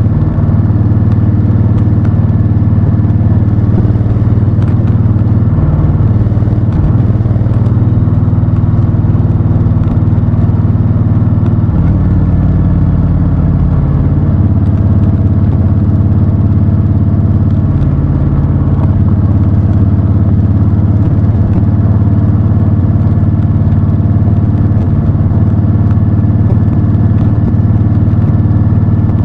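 Honda Fury's V-twin engine running under way, its note holding steady with a few shifts in pitch as the revs change.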